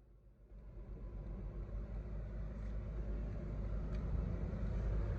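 Car in motion, its low engine and road rumble growing steadily louder, with a faint click about four seconds in.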